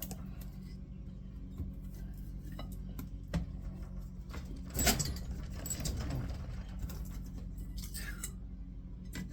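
Light metallic clinks and knocks of a magnetic armature being worked out of a speed-reducer motor housing clamped in a vise, the loudest knock about five seconds in, over a steady low hum.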